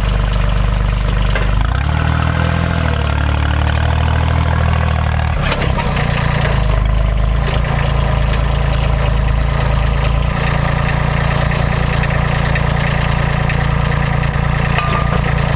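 Diesel engine of a Timberjack forestry forwarder running steadily. Its note shifts for a few seconds near the start, and there are a few short knocks.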